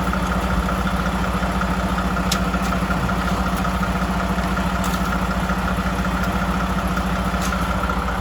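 Snow plow truck's diesel engine idling steadily, with a faint click about every two and a half seconds.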